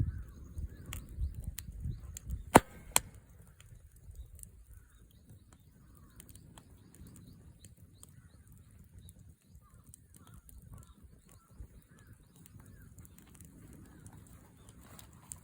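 Two sharp knocks about two and a half seconds in, over low rumbling handling noise, then quiet with faint bird chirps.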